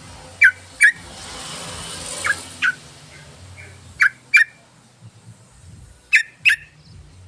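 Yellow-vented bulbul (trucukan) calling in short, sharp, paired notes, four pairs about two seconds apart, each note sweeping quickly downward. A soft rushing hiss swells and fades between the first and second pairs.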